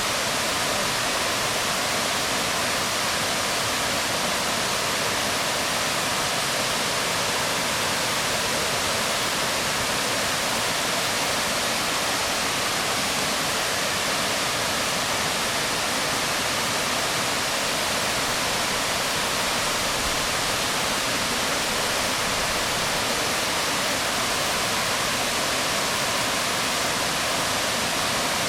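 Waterfall pouring onto rocks: a steady, even rush of falling water that doesn't change.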